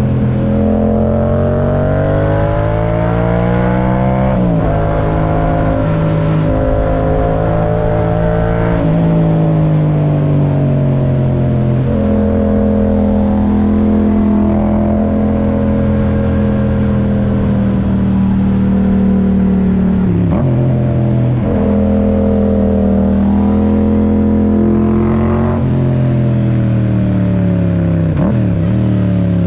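Yamaha MT-07 parallel-twin engine through an Akrapovic titanium exhaust, pulling hard through the gears. Its pitch climbs steadily, then drops sharply at each shift, with stretches of easing off and steady cruising between.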